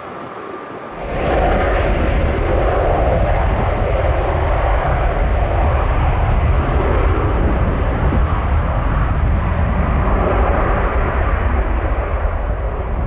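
Aircraft engine noise from a plane at the airport, mixed with strong wind buffeting the microphone in gusts. A loud, deep rumble starts suddenly about a second in and holds steady.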